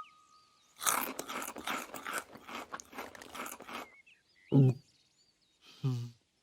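Loud, rapid crunching of food being chewed for about three seconds, then faint bird twittering and two short grunts near the end.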